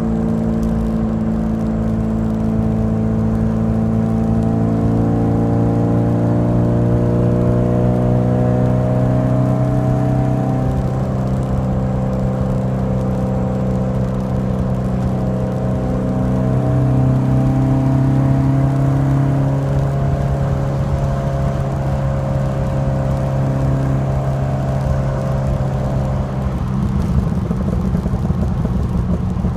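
1986 Alfa Romeo Alfasud Sprint QV's 1.5-litre flat-four boxer engine running through a stainless steel exhaust. Its pitch rises and falls gently as the engine speed changes.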